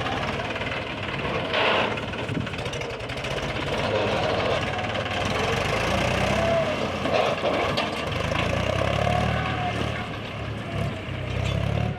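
Heavy diesel machinery engine running, with a brief burst of noise about two seconds in and a steadier low engine note in the last few seconds.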